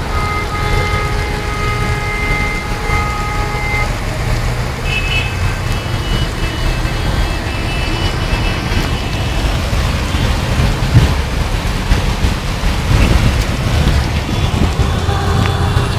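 Storm noise: a heavy low rumble of wind on the microphone and rain, with road traffic running under it. Steady pitched tones sound for the first four seconds, and higher ones from about five to nine seconds in. A sharp knock comes about eleven seconds in.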